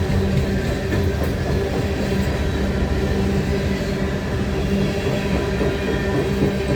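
Coal train rolling by: a steady, loud rumble of the wheels and wagons, with a steady droning tone underneath.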